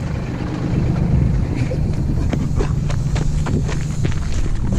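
Car engine idling steadily, with scattered irregular clicks and knocks over it.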